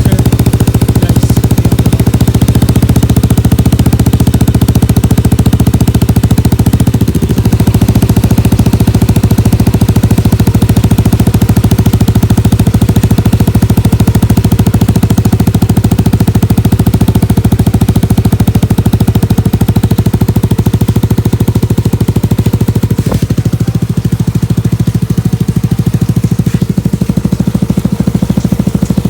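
Yamaha NMAX 155 scooter's single-cylinder four-stroke engine idling steadily through an aftermarket Akrapovic exhaust with its silencer insert fitted.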